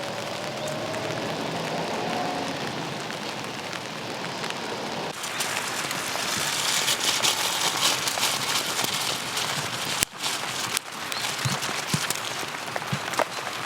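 Steady rain falling and pattering on surfaces. The sound changes abruptly about five seconds in and drops out for an instant near ten seconds, as at cuts between shots.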